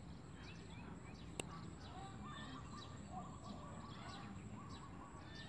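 Birds chirping in the background, short falling chirps repeated every half second or so, with warbling trills joining in partway through. A single sharp click about a second and a half in.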